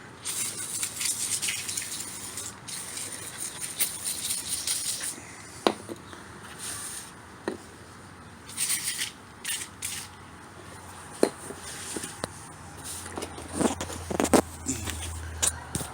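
No-rinse evaporator cleaner sprayed onto a vacuum pump: a long hiss for about the first five seconds, then shorter hisses with a few knocks and some rubbing.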